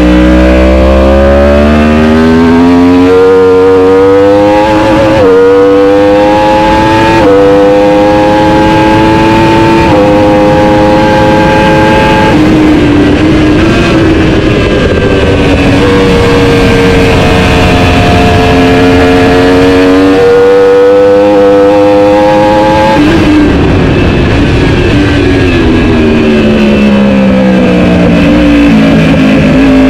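Superbike engine at race pace, pulling up through the gears: the pitch climbs, then drops sharply at each of several quick upshifts. It holds near steady for a while, then falls away in stages as the bike is shifted down.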